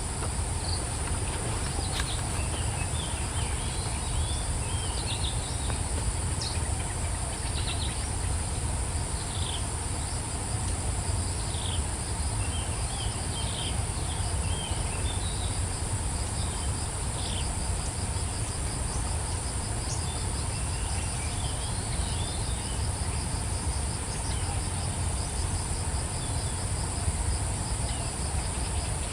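Steady high-pitched insect trill, with a fast pulsing insect call joining in midway. Short bird chirps come and go in little clusters throughout, over a steady low rumble.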